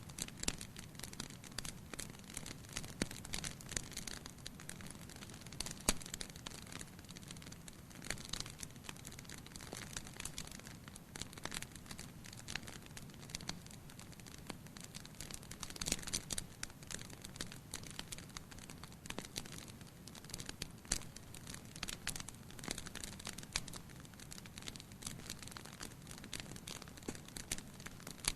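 Firewood burning in a fireplace: irregular crackles and sharp pops over a low steady rush of flame, with a few louder snaps and a busier run of crackling about halfway through.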